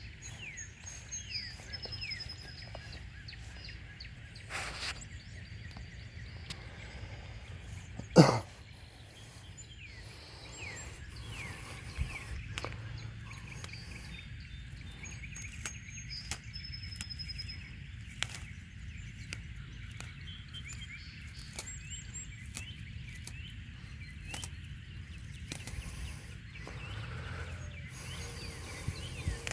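Several small birds chirping and singing over a low steady outdoor rumble. A single sharp thump about eight seconds in is the loudest sound, with a fainter knock a few seconds before it.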